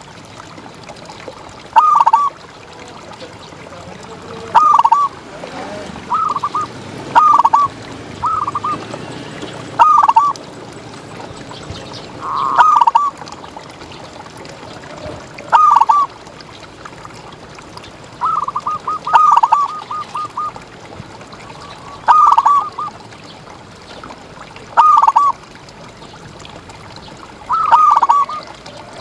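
Zebra dove (perkutut) cooing in short, clear phrases about every two to three seconds, with one longer run of quick notes about two-thirds of the way through. A faint steady hiss runs beneath.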